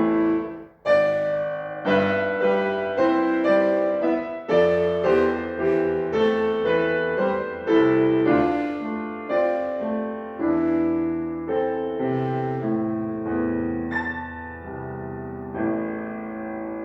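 Solo piano playing a slow classical piece: chords and melody notes are struck and left to ring and fade. There is a brief break in the sound just under a second in, and then the playing goes on.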